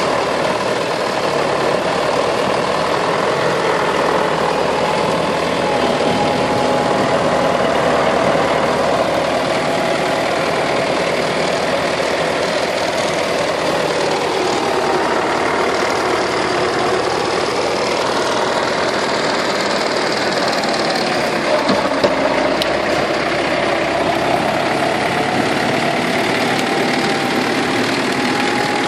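Forestry tractor engine running steadily, its pitch dipping and rising a few times, with a couple of sharp knocks about three quarters of the way through.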